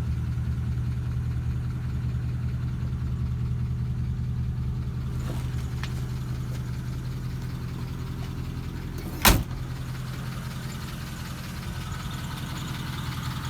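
1952 Pontiac Chieftain's 268ci L-head inline-eight idling steadily just after being started. A single sharp bang sounds about nine seconds in.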